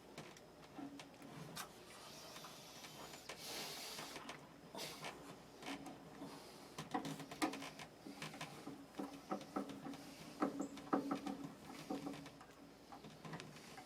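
Hand work on an electric water heater's thermostat and wiring: irregular light clicks, taps and scrapes of parts and tools being handled, coming thicker and louder in the middle. A short hiss comes about three and a half seconds in.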